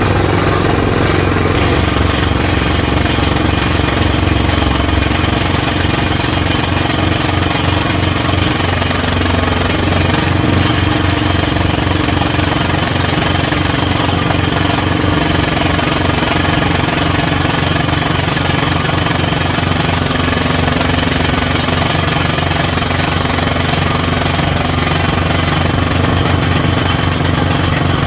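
Borewell drilling rig at work: a rapid, even hammering from the drill over the steady drone of the rig's engine, loud throughout.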